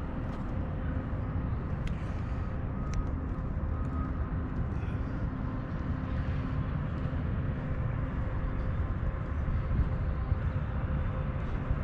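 Outdoor background rumble with a faint steady hum and a few light clicks.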